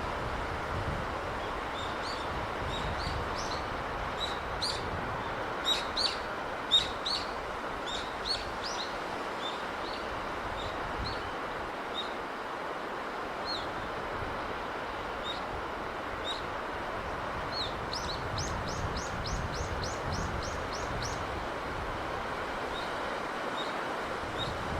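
Steady wash of sea breeze and surf with small birds chirping over it: scattered high chirps, the sharpest about six or seven seconds in, and a quick run of about ten chirps about three-quarters of the way through.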